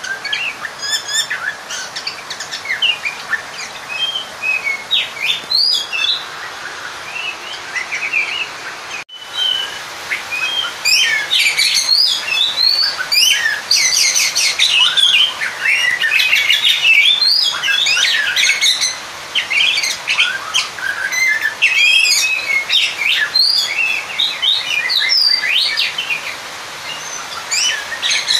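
Oriental magpie-robin (kacer) singing a fast, varied run of sharp chirps and whistled notes, denser and fuller from about ten seconds in, with a brief break about a third of the way through. It is a challenging song of a magpie-robin calling out a rival.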